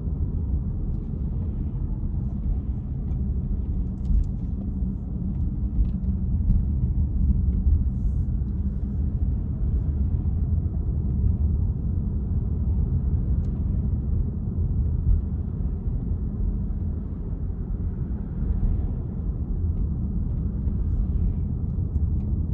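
Car being driven: a steady, deep rumble of engine and tyre noise, with a few faint clicks.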